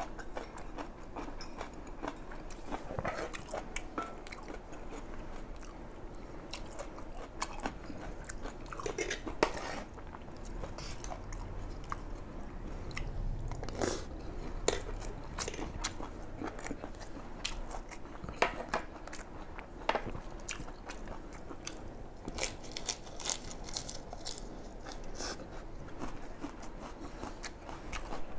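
Close-miked chewing and biting of a mouthful of fried rice, moist mouth noises going on throughout, with a few sharp clicks scattered through.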